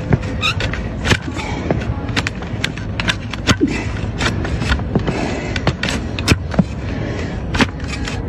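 Donkey hoof being trimmed: sharp, irregular clicks and cracks of tool on hard hoof horn, about one to two a second, over a steady background noise.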